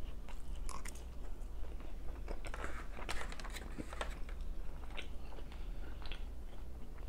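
Close-up chewing of a mouthful of rice and chicken teriyaki: wet mouth clicks and soft crunching, scattered irregularly over a low steady hum.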